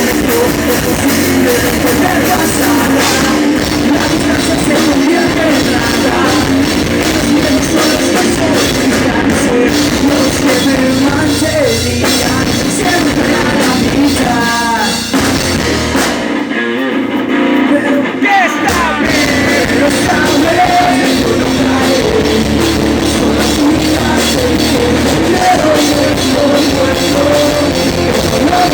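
Pop punk band playing live: distorted electric guitars, bass, drum kit and singing. About sixteen seconds in, the drums and bass drop out for about two seconds, then the full band comes back in.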